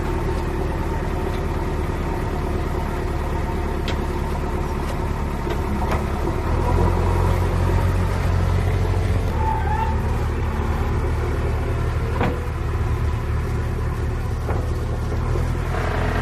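Heavy diesel engine running steadily, louder from about six and a half seconds in.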